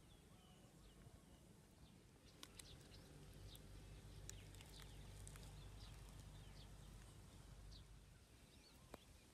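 Faint outdoor quiet: scattered short bird chirps, thickest a few seconds in, over a low rumble that swells in the middle.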